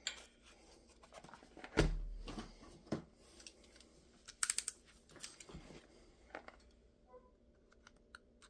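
A small cardboard pedal box and its packaging being handled and opened by hand: scattered clicks, taps and light rustles, with a low thump about two seconds in and a quick run of sharp clicks near the middle.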